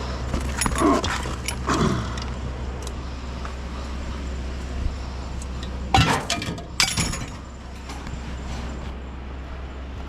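Scrap items clanking and rattling as they are handled, several short clatters with the loudest two about six and seven seconds in, over a steady low hum.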